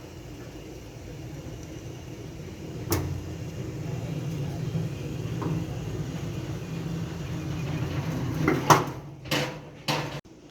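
Automatic gate motor running with a steady low hum, with a sharp click about three seconds in and several louder knocks near the end.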